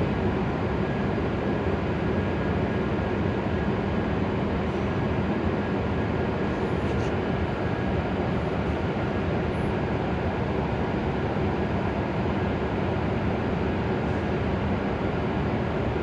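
Hokuriku Shinkansen E7-series train standing at the platform, its onboard equipment giving off a steady droning hum with a few faint held tones.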